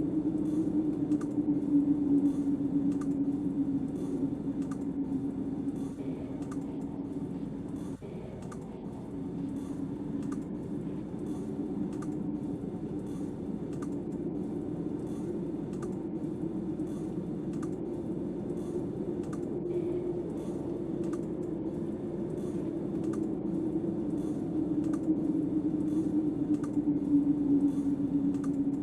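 Steady wavering drone of storm wind, with faint, evenly spaced ticks about every two-thirds of a second.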